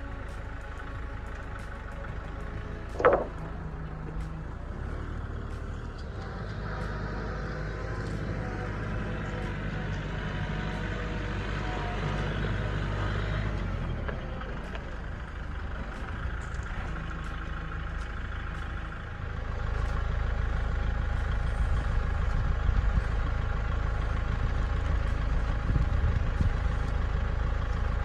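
An engine running steadily, getting louder about two-thirds of the way through. A brief sharp squeak about three seconds in is the loudest single sound.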